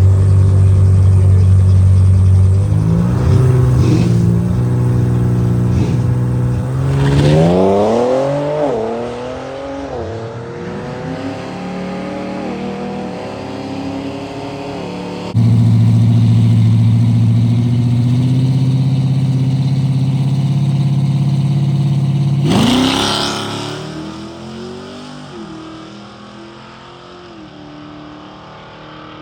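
Drag-strip car engine idling loudly, then revving up about seven seconds in and pulling away, its pitch stepping down as it fades. After a sudden cut, another loud engine drone revs up near the twenty-two-second mark with a burst of noise, then falls away.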